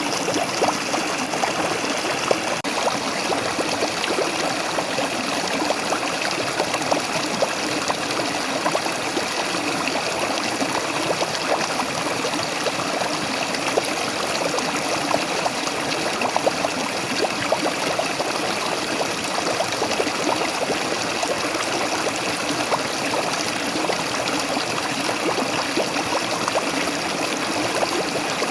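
Waterfall: water falling and splashing steadily, a dense continuous rush with fine splashing.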